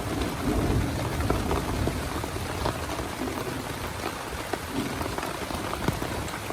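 Heavy rain falling on a small tent: a steady hiss with many scattered sharp drop hits and a low rumble underneath.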